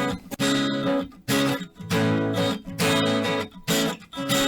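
Acoustic guitar strummed in a steady rhythm, about one full chord stroke every two-thirds of a second.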